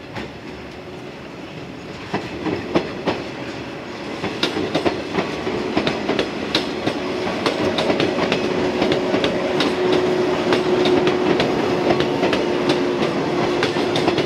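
Electric commuter train passing close by, its wheels clicking over rail joints. It gets louder over the first several seconds, and a steady tone joins the clatter about halfway through.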